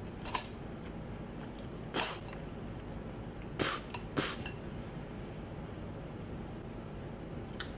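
A person chewing a veggie burger, with a few short crunches from hard, whole raw kidney beans, spread over the first half.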